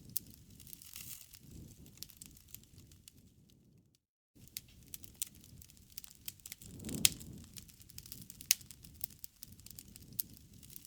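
Bonfire crackling: scattered sharp pops and snaps over a soft low rumble, with the loudest pop and a swell of rumble about seven seconds in. The sound cuts out completely for a moment about four seconds in.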